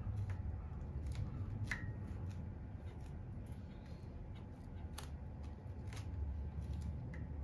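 Scattered light clicks and handling noises, a few spaced a second or so apart, over a steady low hum.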